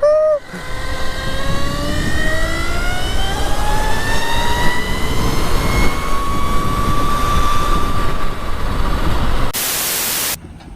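Electric motorcycle motor (an electric-converted Honda Grom) whining as it accelerates, the whine rising steadily in pitch over a heavy rushing noise; the rider likens it to a speeder bike. Near the end, a flat hiss lasts about a second.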